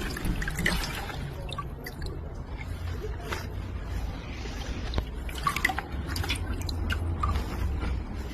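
Wet elm bark being handled for papermaking, with irregular squishing, crackling and dripping water over a low steady hum.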